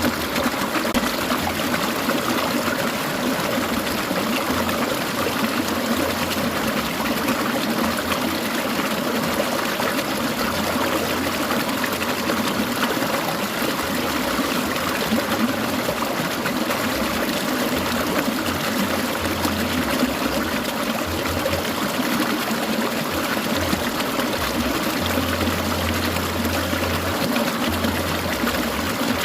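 Clear mountain stream babbling and trickling steadily over rocks.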